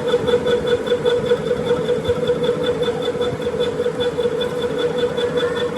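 A motor-driven machine running steadily, with an even hum and a fast, regular high-pitched pulsing.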